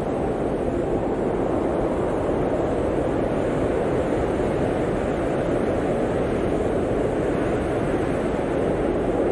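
Steady blizzard wind: an even, unbroken rush centred in the low-mid range, with a low rumble beneath and no gusts or breaks.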